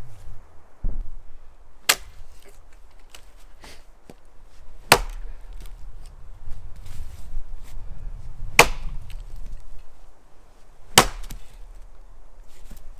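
Axe chopping wood: four sharp, loud blows a few seconds apart, with a few fainter knocks in between.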